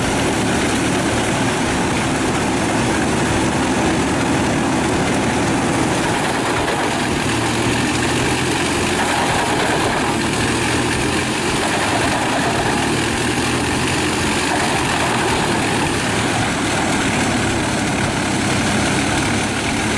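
Heavy machine's large engine running steadily, a constant loud drone that holds one pitch without revving.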